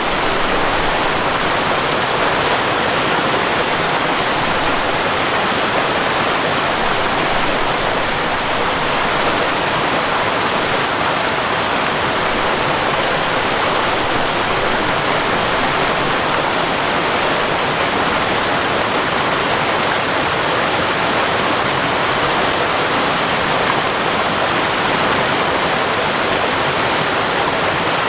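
Seasonal waterfall rushing, a steady, unbroken wash of falling water.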